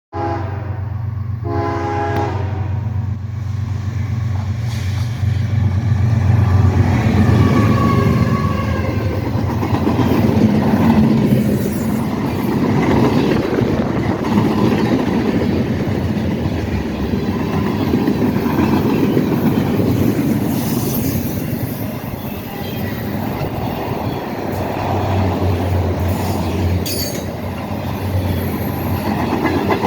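Freight train's diesel locomotives sound two horn blasts in the first three seconds, then pass with a steady low engine drone and the rolling clatter and clicking of wheels over the rails.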